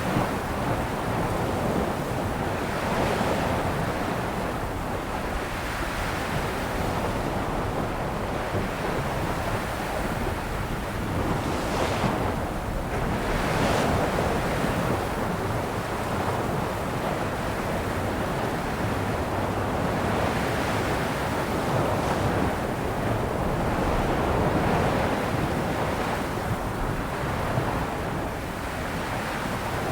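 Sea waves breaking and washing ashore in a steady surf, surging and easing every few seconds, with a stronger pair of breakers about twelve seconds in.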